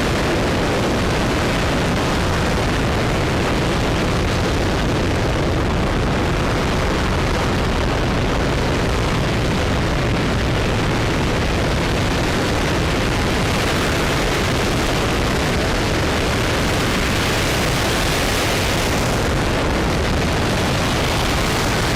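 RS-25 liquid-hydrogen rocket engine firing in a ground test: a loud, steady roar that holds at an even level.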